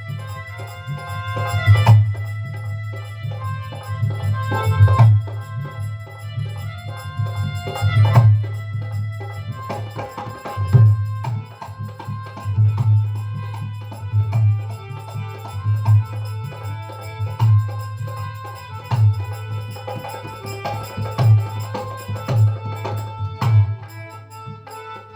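Devotional folk music: a hand drum beating a low, uneven rhythm under held harmonium notes.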